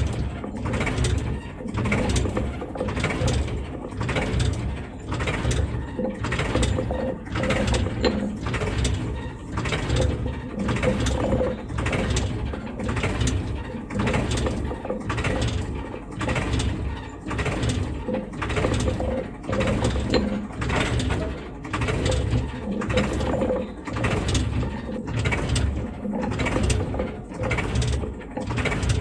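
Small battery-powered DC motor and gear train of a homemade toy road roller running, whirring with a regular pulsing about once a second.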